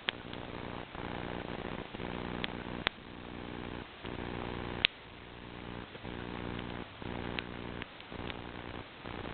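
Wood fire crackling, with sharp irregular pops, over a low steady hum that breaks off briefly about once a second.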